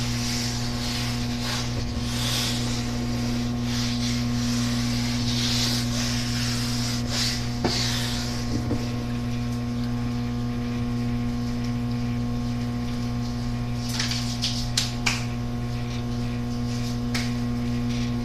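Microwave oven running partway through its heating cycle, a steady hum, with a few faint clicks about halfway and three quarters of the way through.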